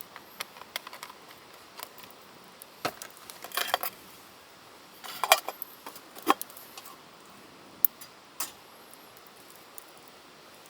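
Scattered light clinks and knocks of small hard objects being handled, with busier clusters about a third of the way in and around the middle and a single sharp click a little later, over a faint steady hiss.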